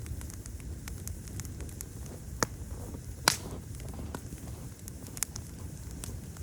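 Wood fire crackling: many small ticks over a steady low rumble of the burning fire. It gives two sharp pops in the middle, a little under a second apart, the second the loudest, and another, smaller pop near the end.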